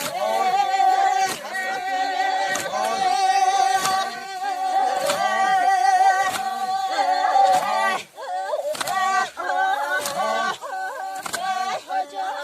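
Singing in long, wavering held notes, with a regular knock about every second and a quarter under it.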